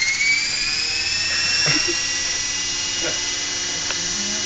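Radio-controlled model helicopter's motor and rotor whining as they spin up. The pitch rises over about the first second, then holds steady and high, with a few faint ticks.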